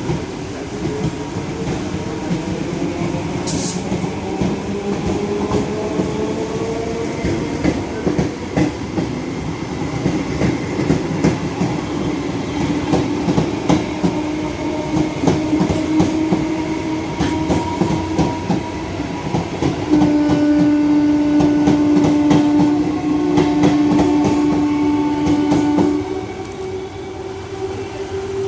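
Indian Railways EMU electric local train running: a whine rising in pitch over the first several seconds, with wheels clacking over the rail joints. About twenty seconds in, a loud steady tone sounds for about six seconds, broken once midway.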